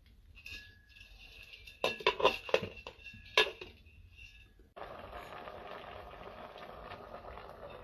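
Dishes and glassware clinking, with several sharp knocks in the first half. A steady rushing hiss follows from a little past the middle.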